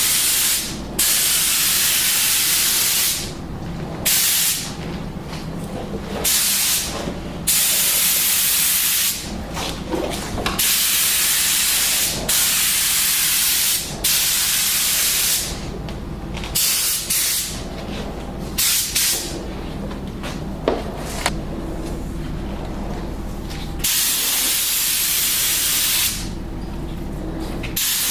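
Compressed-air spray gun spraying paint in repeated bursts of one to three seconds as the trigger is pulled and released, over a steady low hum.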